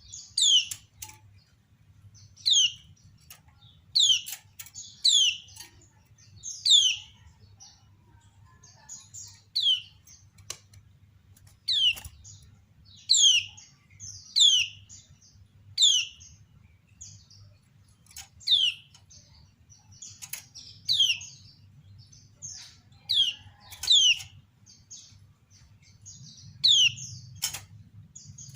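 Kecial kuning (a white-eye) giving the female 'ciak' call: short, sharp chirps that each sweep quickly down in pitch, repeated about every one to two seconds, over a faint low hum.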